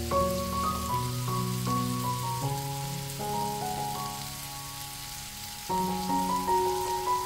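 Beef patties and onion slices sizzling in a cast-iron pan, a steady hiss, under background music of held notes that drops away for a moment past the middle and then returns.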